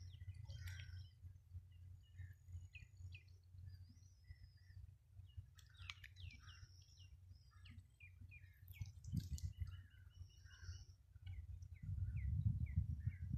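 Small birds chirping and calling, many short chirps scattered through the whole stretch, over a low rumble that grows louder near the end.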